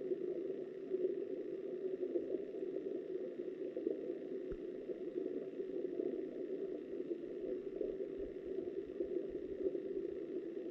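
Muffled, steady rush of flowing river water as heard by an underwater camera, with one faint knock about four and a half seconds in.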